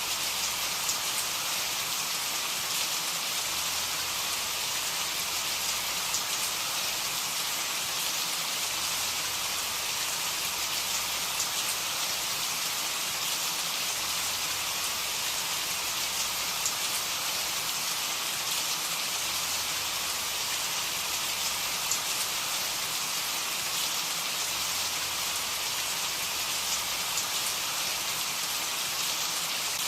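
Steady rain falling: a dense, even patter, with a few sharper single drops standing out now and then.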